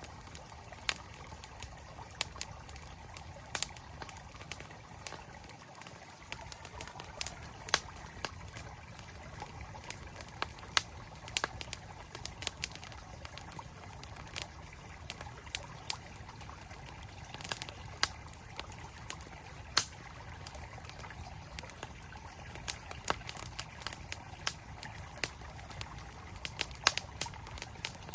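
Campfire crackling with frequent sharp, irregular pops over the steady rush of a flowing mountain stream.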